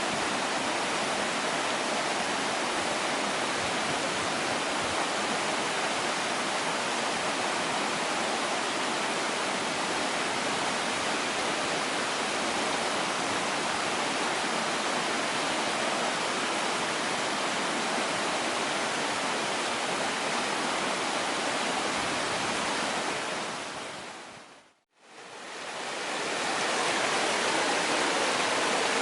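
Mountain stream rushing in a steady, even wash of water noise. About 23 seconds in it fades out to silence and then fades back in over a couple of seconds.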